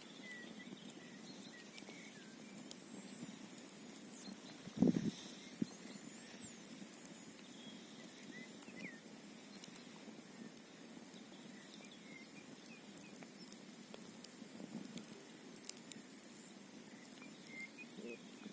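Campfire crackling with scattered small pops and one louder pop about five seconds in, over a steady low rush, with faint high chirps now and then.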